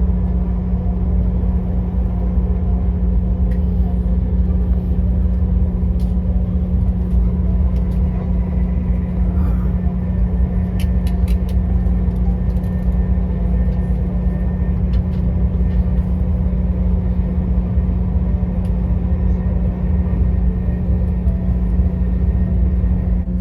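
Steady low rumble of a vehicle in motion, with a constant hum over it.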